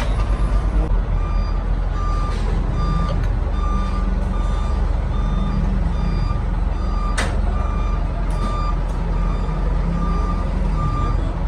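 Komatsu six-cylinder diesel engine running steadily, with an electronic alarm beeping about once a second over it and a sharp click about seven seconds in.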